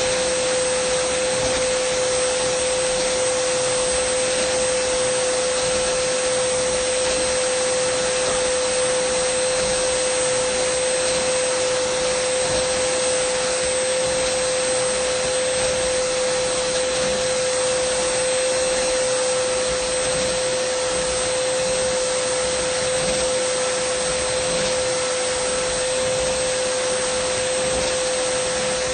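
Dyson vacuum cleaner running steadily, a constant rush of air with a strong steady whine.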